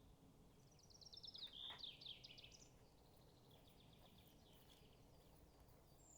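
A songbird singing faintly: a fast trill of high notes falling in pitch, ending about two and a half seconds in, followed by a softer, more distant trill.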